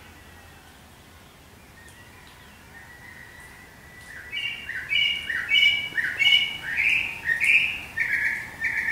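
A songbird singing a run of about eight loud, evenly spaced whistled notes, each slurring in pitch, starting about four seconds in.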